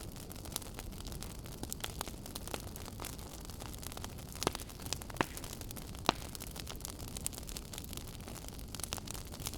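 Wood fire burning in a fireplace: a low steady rumble and hiss of flames with frequent small crackles and a few sharper pops, the loudest about six seconds in.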